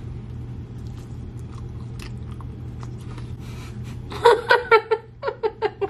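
Close-up mouth sounds of people chewing and biting food, soft clicks and smacks over a steady low hum. Near the end a voice sounds in a run of quick short pulses.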